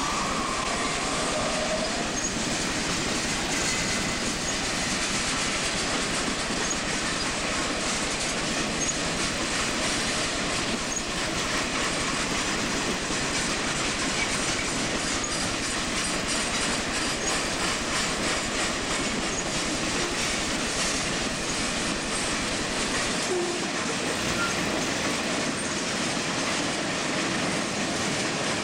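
Freight train cars rolling past at low speed, a steady rumble of wheels on rail with faint clicking over joints. A brief faint wheel squeal fades out near the start.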